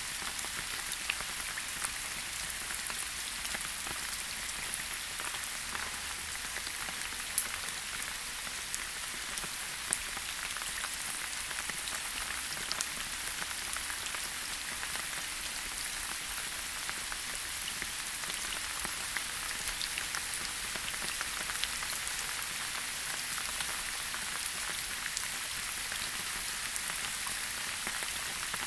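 Steady rain falling in a forest, an even hiss of rain with many individual drops pattering and a few louder drip hits, such as about seven and ten seconds in.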